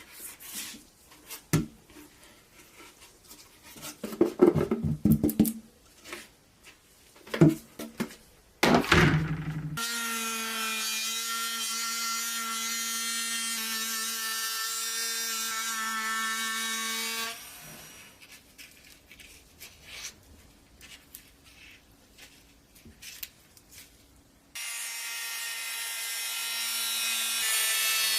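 Small electric power tool running at a steady speed in two long runs, with knocks and clatter of handling the metal parts in between.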